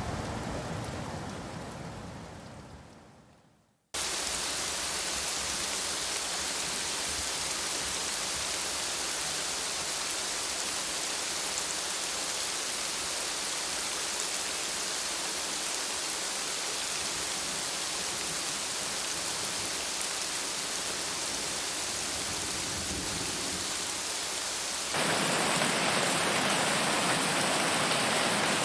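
Steady rain. A first rain recording fades out to silence over the first few seconds, a different steady rain starts abruptly about four seconds in, and near the end it switches suddenly to a louder, hissier rain.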